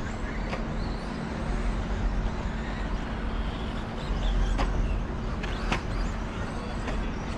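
Radio-controlled 2wd stadium trucks racing on the track: a steady mix of motor whine and running noise over a low rumble, with a few sharp knocks.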